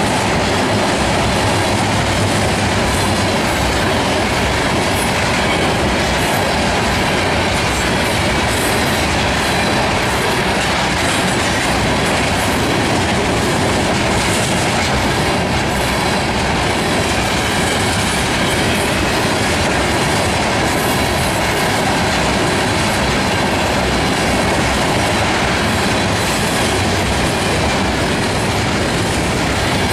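Freight train tank cars rolling steadily past at close range: a loud, continuous rumble of steel wheels on rail, with wheels clicking over the rail joints.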